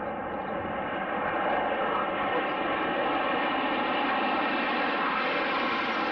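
Fixed-wing aircraft engine noise, growing louder over the first second and a half and then holding steady as the plane draws near: a drone made of several steady tones over a rushing noise.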